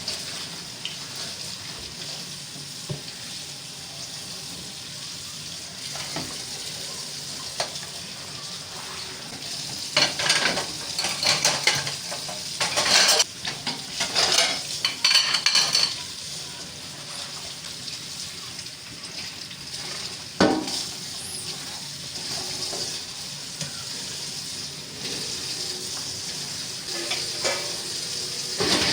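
Pots, pans and cutlery clattering and scraping over a steady sizzling hiss. The clatter is busiest from about ten to sixteen seconds in, with one sharp knock a few seconds later.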